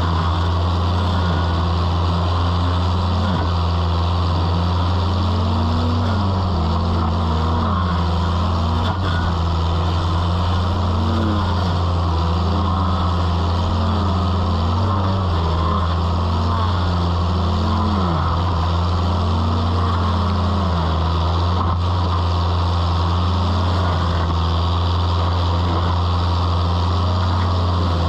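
Toro mini skid steer engine running a hydraulic stump grinder attachment at work: a steady low engine hum under a whine that swoops up and down about every second and a half.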